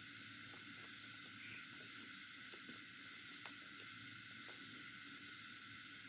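Faint insect chirping, a high pulse repeating about three times a second over a steady hiss, with soft scattered clicks of eating.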